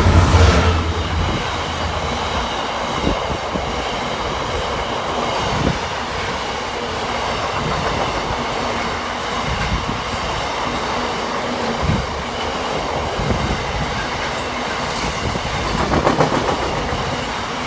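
Freight train passing close by, hauled by a Class 66 diesel locomotive. A deep engine drone in the first second or so gives way to the steady rolling of wagons, with wheels knocking over rail joints now and then.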